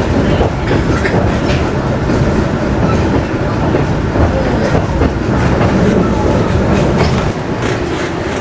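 Panoramic passenger train running, heard from inside the carriage: a steady rumble of wheels on the rails with irregular clicks and clacks.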